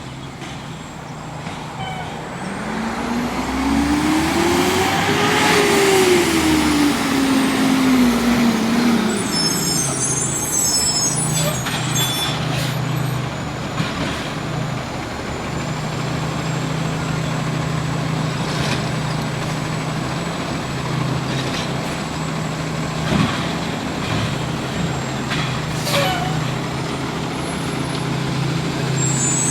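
Diesel garbage truck with an automated side-loading arm at work: the engine revs up and back down over several seconds as the hydraulics cycle the arm, followed by a brief hiss and a few sharp knocks, then the engine runs steadily.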